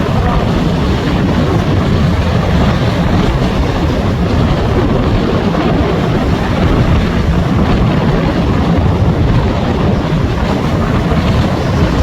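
Strong squally wind buffeting the microphone: a loud, steady rumble.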